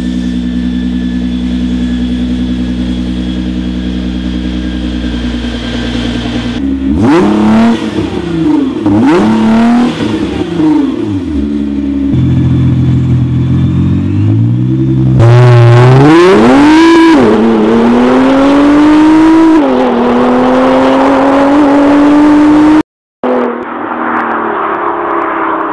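Nissan GT-R's twin-turbo V6 through a stainless steel sports exhaust: running steadily at first, then blipped up and down several times, then revving hard and pulling with the pitch climbing, dropping once as it shifts. Near the end the sound cuts abruptly to a different, duller engine run.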